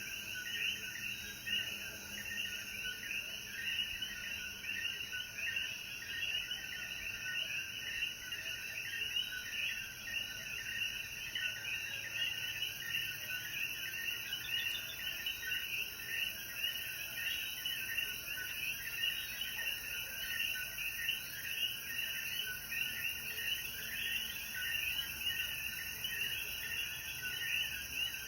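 A dense chorus of Puerto Rican coquí frogs after rain: many overlapping short, rising calls repeating steadily. A faint high hiss runs underneath.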